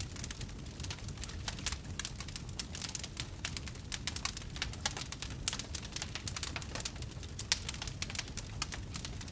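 Wood campfire crackling: many sharp pops and snaps at irregular intervals over a low, steady rumble of the burning fire. One pop stands out louder, about seven and a half seconds in.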